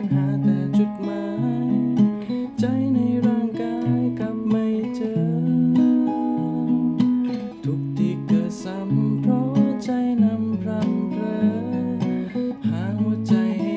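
Acoustic guitar strummed, playing chord changes with a picked melody line, with no singing.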